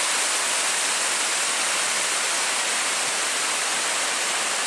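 Spray Falls waterfall rushing steadily: an even, unbroken hiss of falling water.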